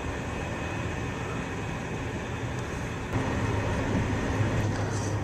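Eurostar high-speed train running, heard from inside the carriage: a steady rumble with a low hum that grows louder about three seconds in.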